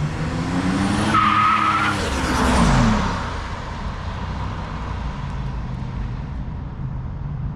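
1987 Buick Grand National's turbocharged 3.8-litre V6 pulling hard under acceleration, its pitch climbing, with a brief high-pitched squeal about a second in. Near three seconds the engine pitch drops sharply, and the car carries on with a steady lower engine and road noise.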